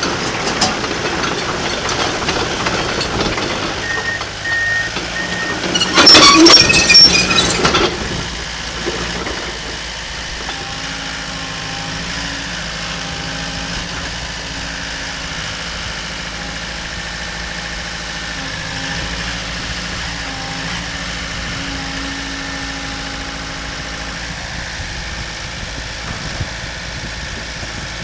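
Komatsu D37PX-21 crawler dozer's diesel engine running, with loud metallic clanking and squealing peaking about six seconds in, then settling to a steady idle.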